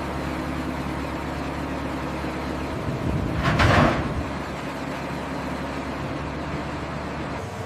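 Lifting crane's engine running steadily under load, a low drone with several steady hum tones, as a suspended load is swung into place. A louder rushing noise swells and fades about three and a half seconds in.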